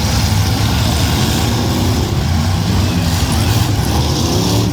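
Several demolition derby cars' V8 engines running loudly together, with pitch rising toward the end as engines rev.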